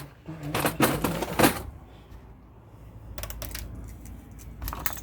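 Light clicks and taps of small components and hand tools being handled on a workbench, in short clusters about a second in, around three seconds in and near the end.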